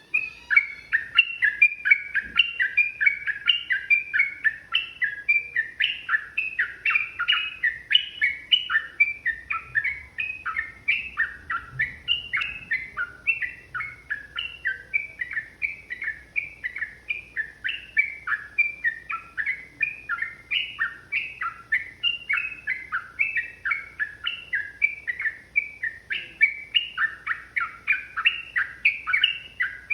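Sooty-headed bulbul (trucukan) singing a long, unbroken run of quick, short chirping notes, about three a second.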